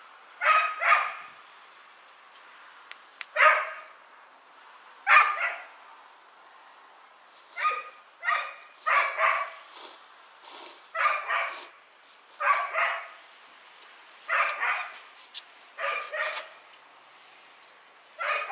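A dog barking repeatedly, often two or three barks in quick succession, with a second or two between each group.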